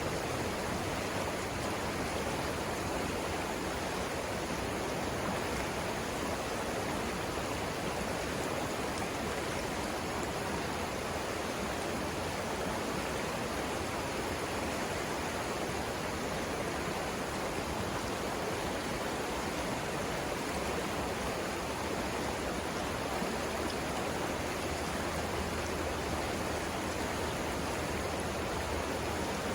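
Savannah River water rushing steadily, an even, continuous flow noise with no breaks.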